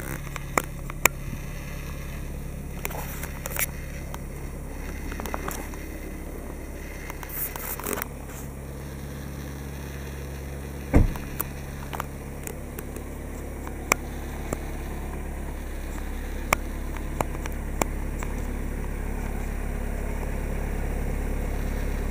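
Volkswagen Passat 2.0 TDI diesel engine idling, a steady low rumble that grows a little louder toward the end, with scattered light clicks and one heavy thud about eleven seconds in as the driver's door is shut.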